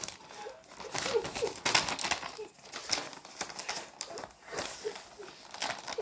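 Irregular crinkling and rustling, like plastic or paper being crumpled and handled close to the microphone.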